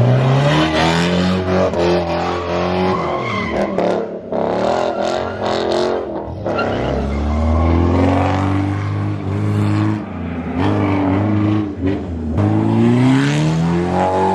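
Powerful car engine revving hard, its pitch climbing and falling off three times, with tyre screech from a burnout or donut.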